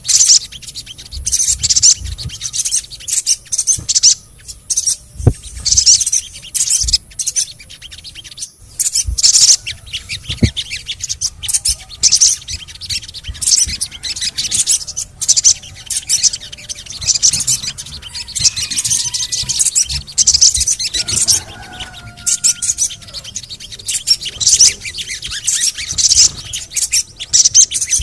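Sogon (little spiderhunter) chirping: rapid, high-pitched 'cret-cret' and 'cuit' notes in quick repeated bursts. This is a lure recording played to set caged sogon birds singing.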